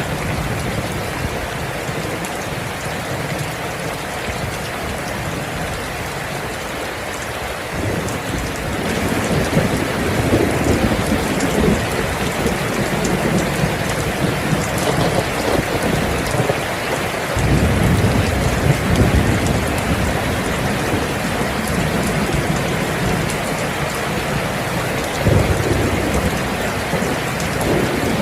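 Steady heavy rain hissing, with low rolling thunder rumbling in about eight seconds in and swelling again around seventeen and twenty-five seconds in.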